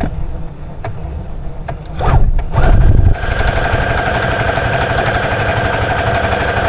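Brother CS7205 computerized sewing machine starting to sew, running at a steady speed with a fast, even whir of needle strokes from about three seconds in. Before it starts there are a couple of light clicks and a loud low bump.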